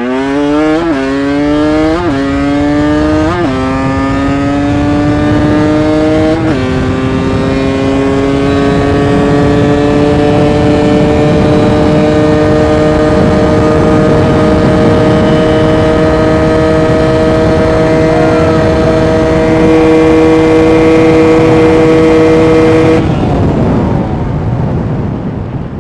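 KTM dirt bike engine accelerating hard up through the gears, with four quick upshifts in the first seven seconds. It then holds a steady high-speed run with the revs creeping up, over heavy wind rush. The throttle closes about 23 seconds in and the engine note drops away.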